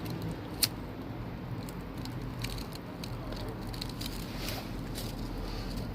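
Small fire of dry leaves and paper crackling, with scattered sharp pops, the loudest a little over half a second in.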